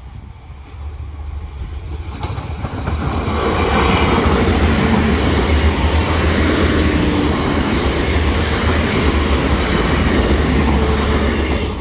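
A train passing over the level crossing. Its rumble and wheel clatter build up over the first few seconds, stay loud and steady, then fall away near the end.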